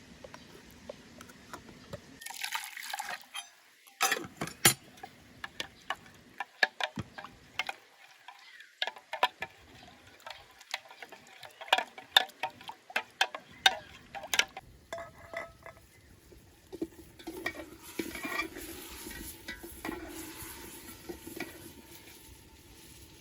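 Dishes and metal utensils clinking and knocking against pots in a burst of many sharp strikes, with a short rush of poured or splashing water before it and a longer, softer run of water near the end.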